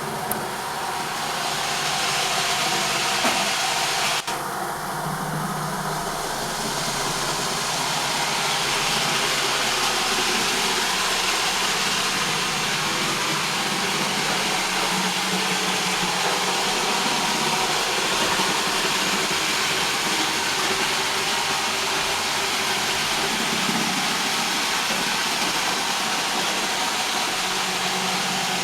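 Roomba robot vacuum running, a steady whirring hiss of its motor and brushes, with a single short click about four seconds in.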